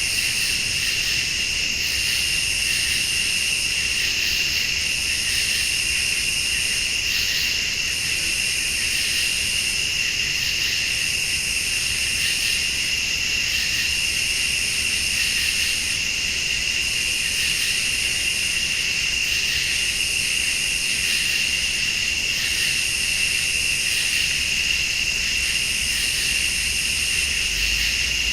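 Night chorus of crickets and late-summer insects: a steady high trill, with a higher buzz that switches on and off about every two seconds.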